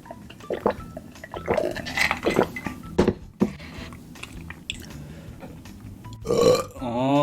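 Close-miked eating sounds: irregular wet chewing and mouth smacks with small sticky clicks as chicken is eaten. A man's voice starts near the end.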